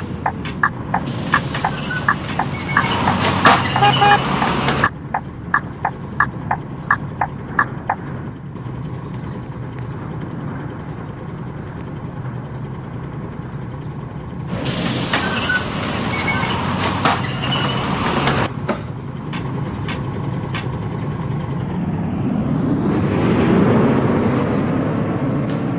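Scania K230UB city bus heard from inside, its engine running with evenly spaced clicking about three times a second for the first several seconds. Two loud rushes of air-like noise, each a few seconds long, come early and midway. Near the end the engine note rises as it pulls harder.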